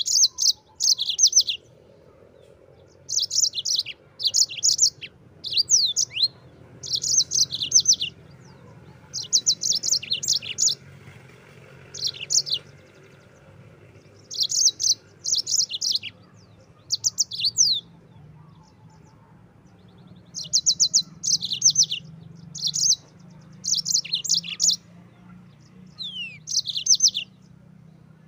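Yellow-fronted (Mozambique) canary singing: high, rapid trilled phrases with quick down-slurred notes, each about a second long, repeated with short pauses.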